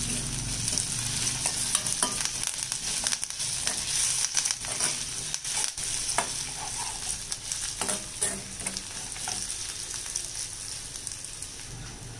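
Chopped onions and curry leaves sizzling in hot oil in a stainless steel kadai, stirred with a metal spoon that scrapes and clinks against the pan.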